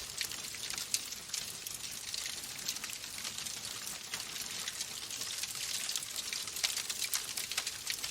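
Fire burning in a fireplace: a steady hiss with frequent small crackles and pops, a few louder pops about two-thirds of the way through.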